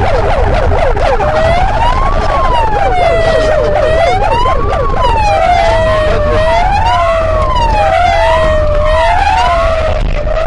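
Police car sirens during a pursuit. A fast yelp switches to a slow rising-and-falling wail about a second in, and a second wail joins out of step from about five seconds in, over a low rumble.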